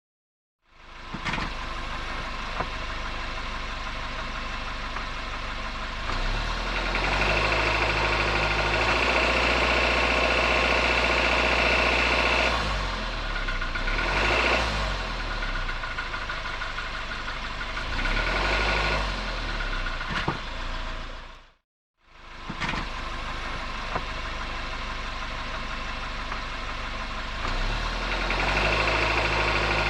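Suzuki Jimny Sierra JB74's 1.5-litre four-cylinder petrol engine running, with stretches under more load where a rattle comes in. This is the abnormal rattle the owner hears on low-rpm acceleration, which carries on even once the engine is warm. The sound breaks off briefly near the start and again about two-thirds of the way through.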